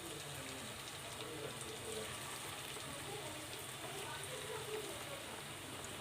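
Hot oil sizzling steadily as chicken pakodi deep-fries in a pan.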